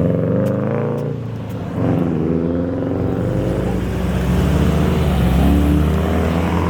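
Car engine running close by, its revs dropping, then climbing again and holding steady.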